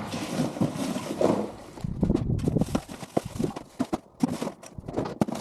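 Irregular knocks, clatters and thumps of junk being handled and dropped, with a run of heavier low thumps about two seconds in.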